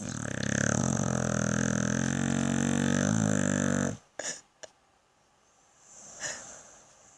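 Pit bull snoring: one long, loud, pitched snore lasting about four seconds, then a few short clicks and a quiet pause.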